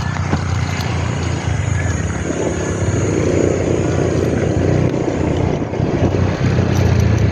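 Ford Ranger 2.2 diesel engine running under way, a steady low drone with road and wind noise that swells briefly near the middle.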